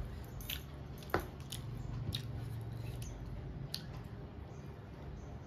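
A person chewing food with her mouth, wet smacks and short clicks scattered through, with one sharper click about a second in.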